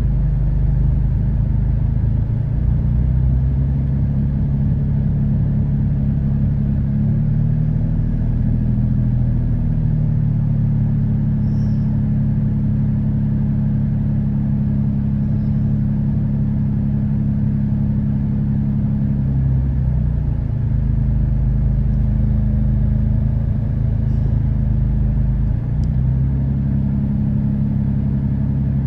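2013 Dodge Durango's 3.6-litre V6 idling steadily, with the pitch of its note shifting slightly a few times. It is misfiring on cylinders 1, 3 and 5 of bank 1 (code P0300) despite new spark plugs and coils.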